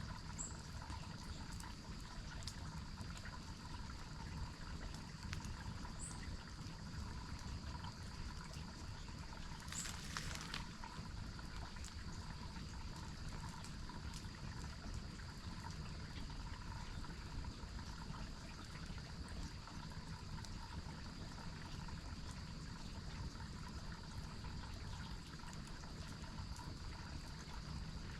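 Water running steadily over a waterfall, with a brief louder rush of noise about ten seconds in.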